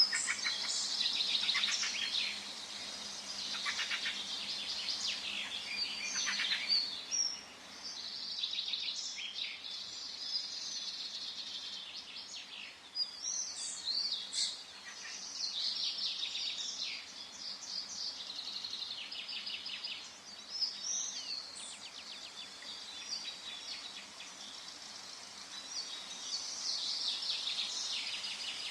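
Forest birdsong: several birds singing and calling at once, overlapping chirps and trills with no pause, over a faint steady background hiss.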